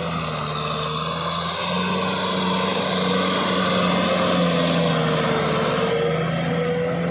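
Kubota tractor's diesel engine running steadily under load while plowing through mud, its note sagging slightly about five seconds in and then recovering.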